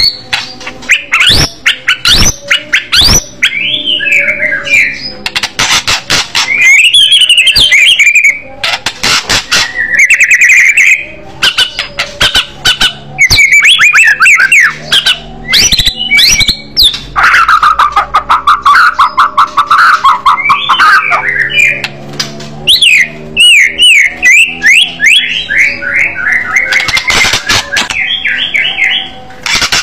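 White-rumped shama (murai batu) singing loudly: a fast, varied song of whistled phrases, rapid trills and harsh rasping notes, with many sharp, short calls in quick succession.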